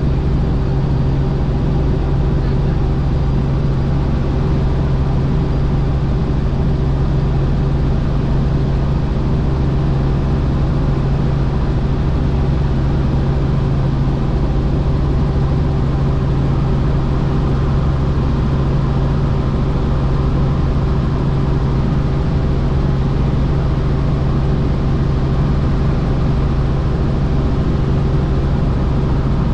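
Helicopter running, a loud steady drone of engine and rotor with a strong low hum that holds constant throughout.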